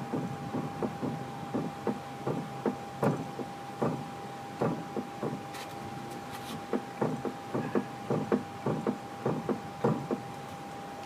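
Irregular knocking from a 2003 Nissan 350Z, the noise it makes when turning left: short knocks at about two a second, over a faint steady tone.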